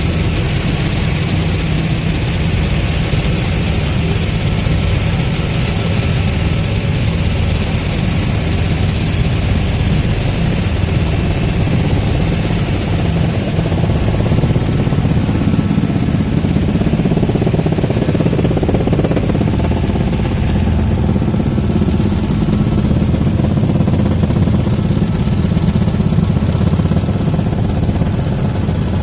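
Helicopter engine and rotor noise heard from inside the cabin: a loud, steady drone, strongest in the low range, holding through the flight with only a slight rise in level partway through.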